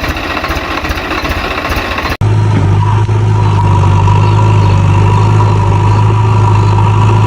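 Engine running with a rattling clatter, then an abrupt cut about two seconds in to a steady low engine drone.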